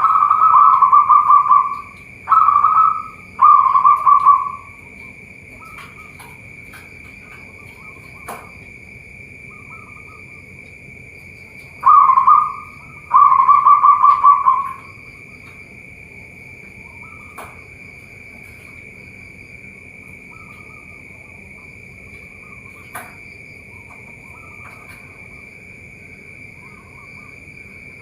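Zebra dove (perkutut) cooing: rapid, pulsed coo phrases in two bouts, one at the start and another about twelve seconds in. A steady high-pitched buzz runs underneath.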